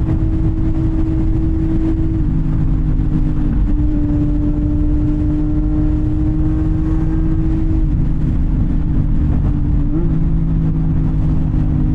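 CFMOTO 675NK's three-cylinder engine running through a titanium full-system exhaust while riding, holding steady revs with a few small changes in pitch as the throttle shifts, including a short rise near the end.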